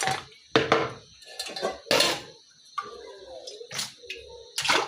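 A sufuria, a metal cooking pot, being rinsed out by hand: a string of irregular sharp clanks and knocks of the pot.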